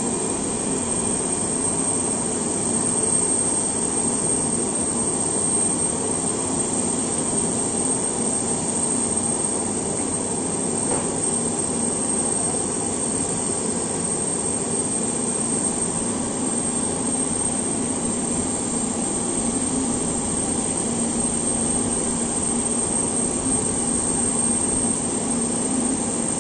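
Aircraft turbine running steadily: a constant high whine over a low rumble.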